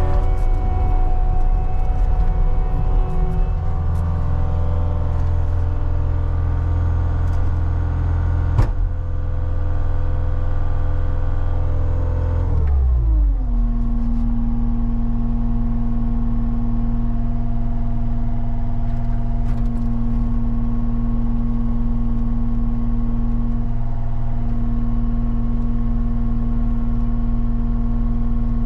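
CAT 279D skid steer's diesel engine running at high revs, with a single sharp clank about a third of the way in. Just before halfway the engine pitch falls smoothly as the revs come down, then it holds a steady lower run with a steady hum on top.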